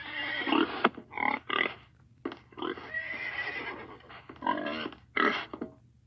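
Horse neighing in a series of short, separate calls.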